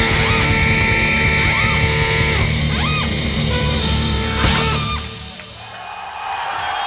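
Live band music with drums and electric guitar, ending on a loud final hit about four and a half seconds in, after which the music drops away.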